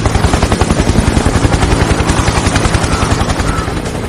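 Helicopter rotor chopping in a fast, steady rhythm, growing a little quieter near the end.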